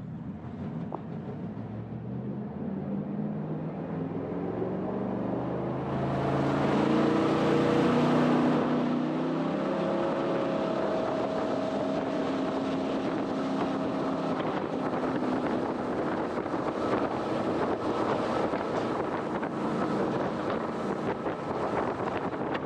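Jet boat engine revving up as the boat accelerates, its note rising over the first several seconds. It then runs steadily at speed, with a loud rush of wind and water.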